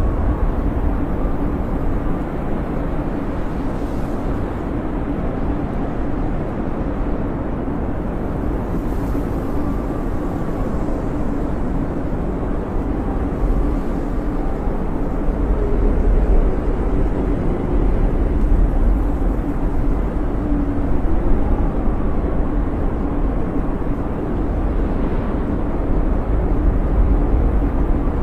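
Snowstorm wind blowing steadily: a low rushing rumble with faint whistling tones that waver up and down.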